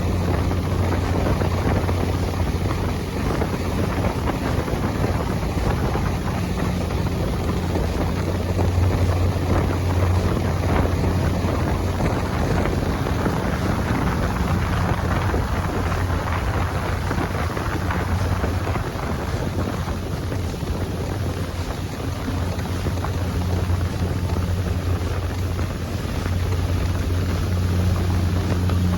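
A fishing ferry's engine running steadily under way, a low drone, with wind buffeting the microphone.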